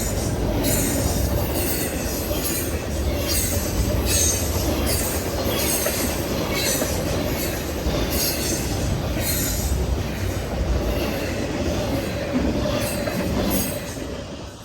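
Norfolk Southern freight train rolling past: a steady rumble of railcars with repeated wheel clicks over the rail joints and a squealing tone from the wheels. The sound drops away near the end.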